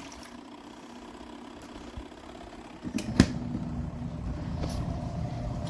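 Pyle PUCWM11 portable washing machine agitating a load during its wash cycle: a steady, quiet low motor hum with churning. A sharp knock comes about three seconds in, after which the hum is louder.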